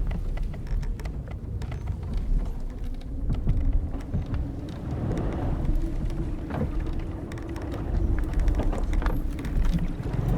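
Old wooden sailing ship's timbers and ropes creaking over a low rumble of wind and sea. A long, drawn-out creak sounds through the middle, with small ticks and clicks of wood around it.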